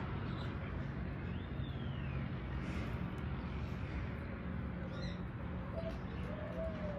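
Steady low background hum with occasional bird calls: a high, arched call about one and a half seconds in and a lower, arching call near the end.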